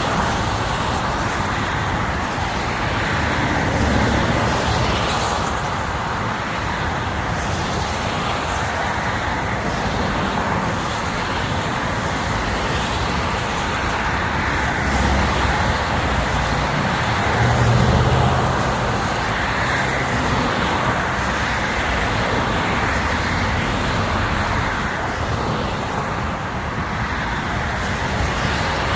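Highway vehicle noise, engines and tyres making a steady rumble and hiss that swells louder a few times, loudest about two-thirds of the way through.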